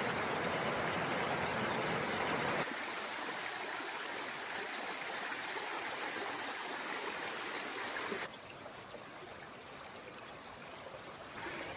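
Stream water flowing in a steady rush. It drops abruptly to a quieter level about two and a half seconds in, and again about eight seconds in.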